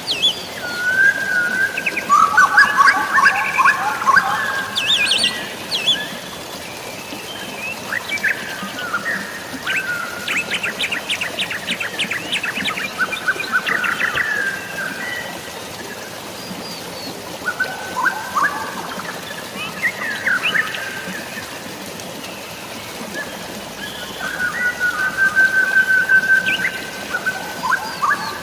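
Forest birds chirping and calling over a steady hiss of rain and running water. One bird gives a fast rattling series midway, and near the end another holds a long, level whistle.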